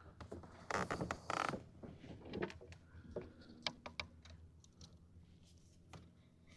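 Small handling noises of fishing tackle and kayak during a fight with a hooked fish: a short rush of noise about a second in, then scattered sharp clicks and creaks.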